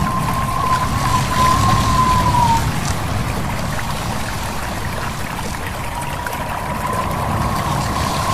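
A stream babbling steadily, mixed with a wind-and-leaves ambience. A thin, wavering whistle-like tone sounds for the first two seconds or so and comes back near the end.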